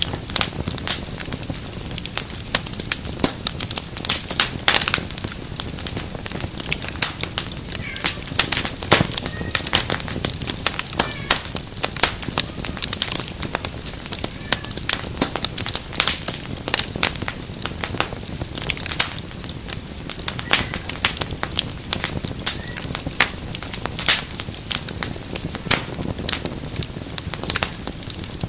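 Wood fire crackling in a fireplace: dense, irregular pops and snaps over a soft steady hiss.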